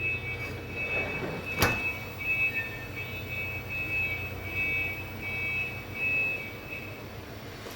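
Saunier Duval gas boiler running: a steady low hum with a high whine that comes and goes. There is one sharp click about one and a half seconds in, and the hum and whine stop near the end.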